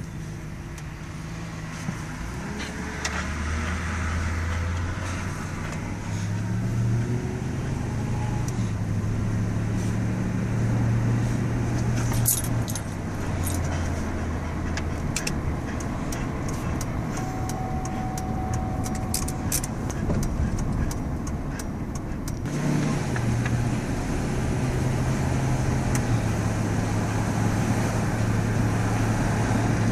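Pickup truck driving, its engine hum rising and falling with speed and dropping sharply about two-thirds of the way in before building again, over steady road and wind noise from an open window. Light metallic jingling clicks come in a few short clusters.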